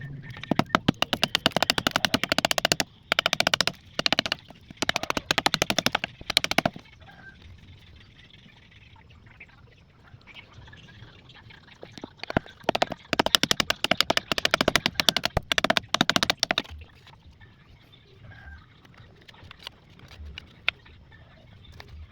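Two spells of rapid rasping strokes, each a few seconds long: a hand tool working the wood of a knife sheath. Quieter scattered handling noises fall between and after them.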